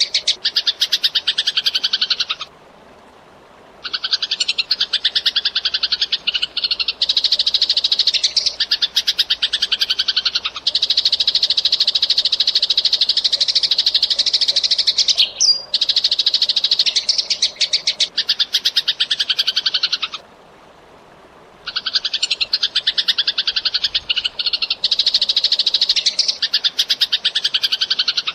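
Eurasian tree sparrows chirping in fast, tightly packed trains of high chirps, breaking off briefly twice.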